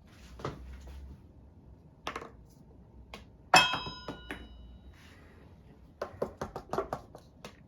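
Glass clinking once, with a sharp strike that rings on for about a second, halfway through. A few soft knocks come before it, and a quick run of light clicks and taps comes near the end.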